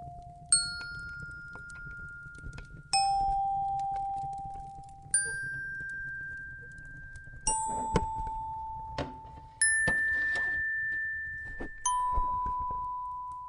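Slow bell-like chime notes, struck one at a time about every two seconds, six in all, alternating between higher and lower pitches, each ringing on and fading out. A faint low rumble and scattered small crackles lie underneath.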